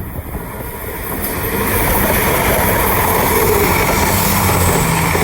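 East Midlands Railway class 222 Meridian diesel multiple unit passing through the station at speed without stopping. Its rush of wheel and air noise builds over the first two seconds and stays loud, over a steady low engine hum.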